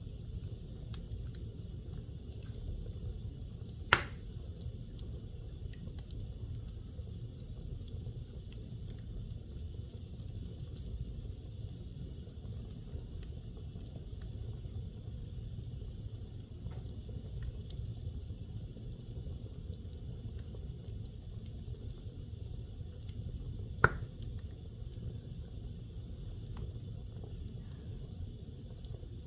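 Fire burning in a fireplace: a steady low rush with faint scattered crackles, and two sharp pops, one about four seconds in and another near the end.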